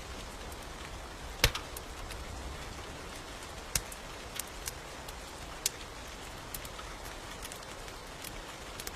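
Steady rain with a wood fire crackling, giving a few sharp pops, the loudest about one and a half seconds in.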